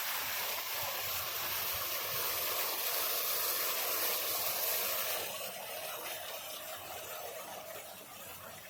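Steady hiss of spraying water, dropping clearly in level about five seconds in.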